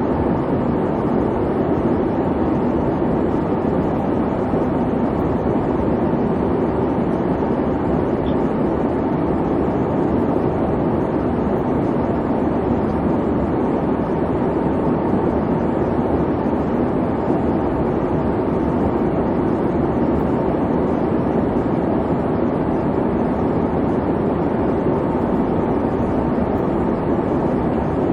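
Airliner cabin noise: the steady low rush and hum of the engines and airflow, unchanging throughout.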